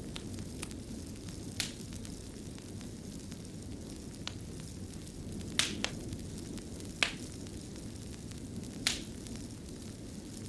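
Wood fire crackling in a stone fireplace: a steady low rush of flame with scattered sharp pops and snaps, about eight in all, the loudest about seven seconds in.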